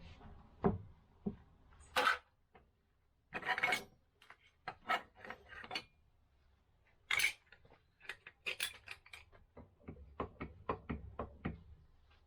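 Metal tools and small parts clinking and clattering as they are handled, with irregular clicks and knocks and a quicker run of light ticks in the second half.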